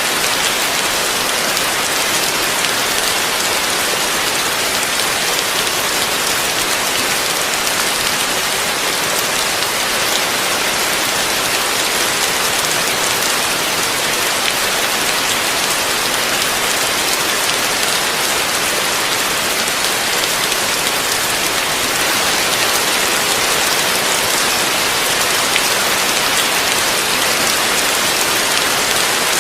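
Heavy rain falling steadily, a dense, even hiss of drops with no breaks.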